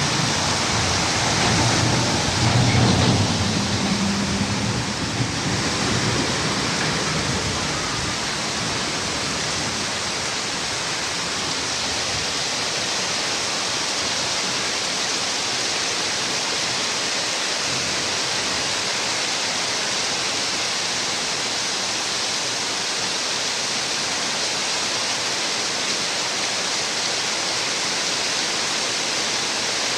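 Heavy rain pouring down steadily: a dense, even hiss. A low rumble joins it during the first few seconds.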